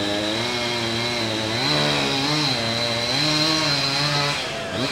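Chainsaw engine running, revving up twice and easing back to a lower speed, then its note drops away near the end.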